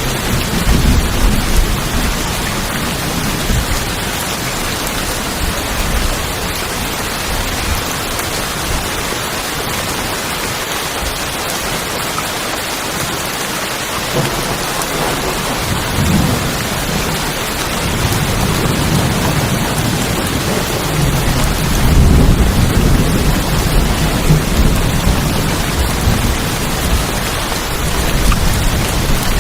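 Steady heavy rain drumming on a tin roof, with low rumbles of thunder swelling up several times.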